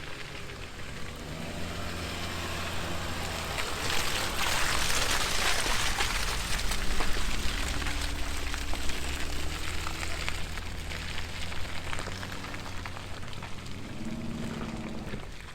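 A vehicle engine running steadily under a crackly hiss of rain, the hiss swelling for a few seconds about four seconds in.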